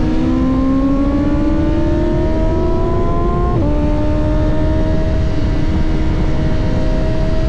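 BMW S1000RR inline-four sport bike engine accelerating on track. Its pitch climbs steadily, drops sharply at an upshift about three and a half seconds in, then climbs again, over heavy wind noise.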